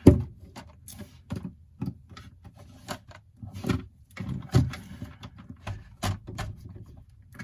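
Handling noise from a phone being picked up and moved: irregular knocks and clicks with some rustling, the loudest right at the start.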